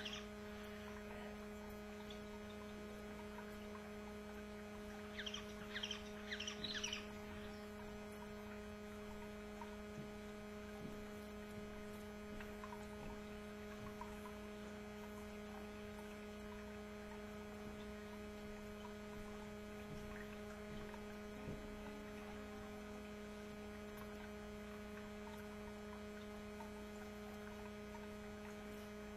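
Steady low electrical hum, with a brief burst of short, high canary chirps about five to seven seconds in and a few faint chirps scattered later.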